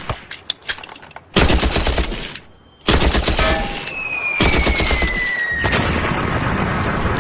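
Machine gun firing in rapid bursts of about a second each, with short gaps between, running into unbroken fire in the last second or so. A single falling tone sounds through the middle.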